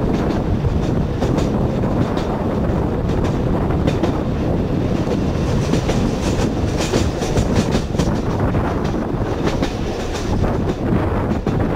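Electric narrow-gauge car of the Sóller railway running along the track: a steady rumble, with irregular clicking of the wheels over the rail joints that is thickest about two-thirds of the way through.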